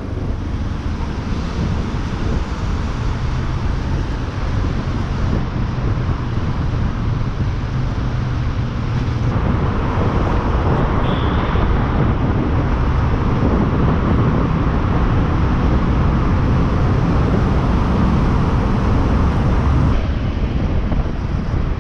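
Yamaha Lander 250 single-cylinder motorcycle engine running on the move, mixed with wind rush on the microphone and road noise. The sound grows louder about halfway through and eases near the end.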